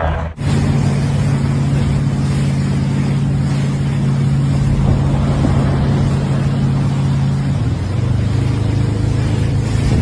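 A motor running steadily with a strong low hum, over a rushing noise, starting suddenly just after the start and dropping slightly in pitch about three quarters of the way through.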